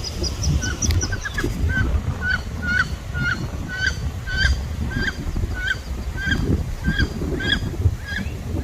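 Waterfowl calling over and over, a steady series of short calls about two a second, over low rumbling wind noise on the microphone.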